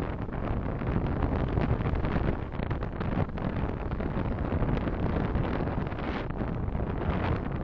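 Steady road and wind noise of a car driving, picked up by a dashcam microphone, with a heavy low rumble.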